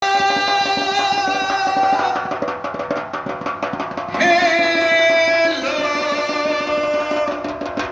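Instrumental opening of a Hindi devotional bhajan: a melodic instrument holding long notes over a fast, even hand-drum beat that comes in strongly about two seconds in.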